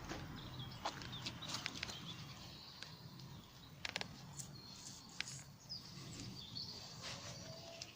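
Woodland birds chirping and warbling in short phrases, loudest in the middle stretch, over scattered light clicks and crackles.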